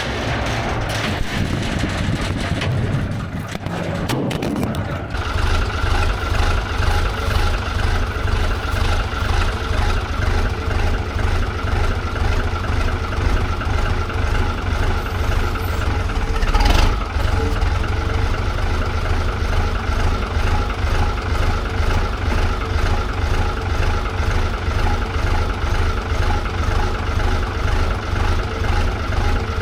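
A vehicle engine running, settling into a steady, pulsing idle about five seconds in. There is one sharp knock a little past halfway.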